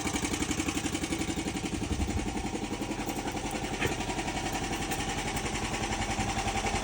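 1963 Trojan's engine idling steadily after a cold start, in an even run of firing pulses. A single sharp click sounds about four seconds in.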